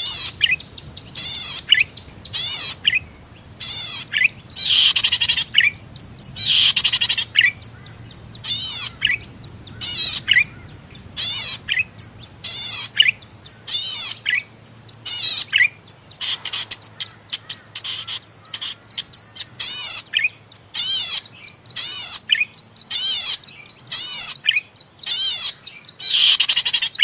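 Zitting cisticola (cici padi) calling, sharp high notes repeated about once a second, each a rapid warble.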